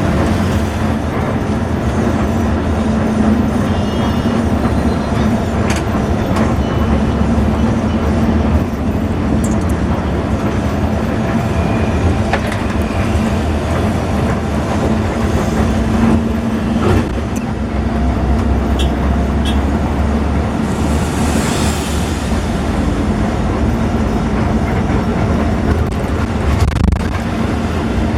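Intercity bus on the move, heard from inside: steady engine hum and road rumble with occasional short rattles and clicks.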